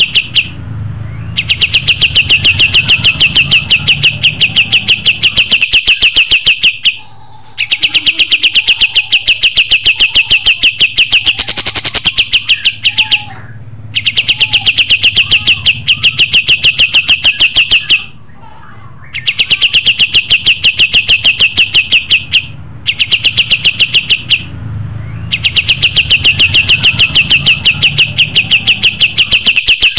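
Kapas tembak (a bulbul) singing a fast chattering song: long strings of rapid, evenly repeated notes, each string lasting several seconds, broken by short pauses.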